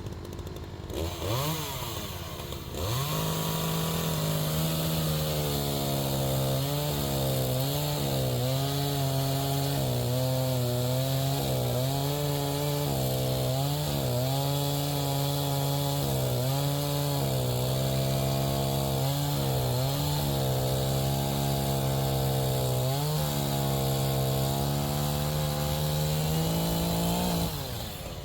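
Two-stroke chainsaw revving up briefly, then running at full throttle while cutting through a log, its pitch dipping again and again as the chain bogs under load. It drops off suddenly near the end.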